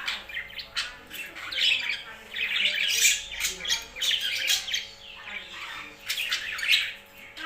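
Several pet birds squawking and chirping, a dense run of short, harsh calls overlapping one another with only brief pauses.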